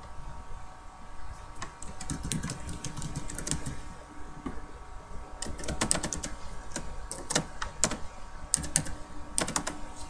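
Typing on a computer keyboard in several quick bursts of key clicks, over a steady hum.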